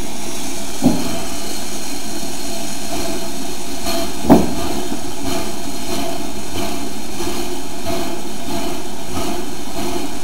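Steady running noise of a narrow-gauge steam train, broken by two sharp knocks, one about a second in and a louder one near the middle.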